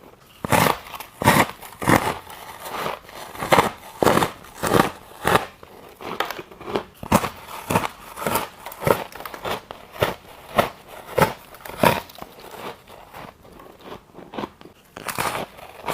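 Ice being chewed close to the microphone, a crunch roughly every half second, with a quieter stretch near the end before louder crunches start again.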